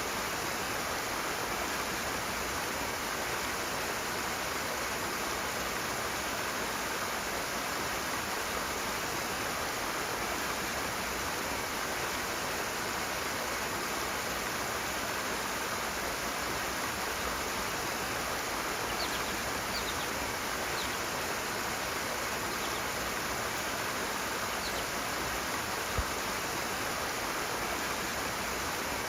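Rushing water from a stream, running as a steady, even hiss with no let-up. A few faint short high chirps sound in the second half.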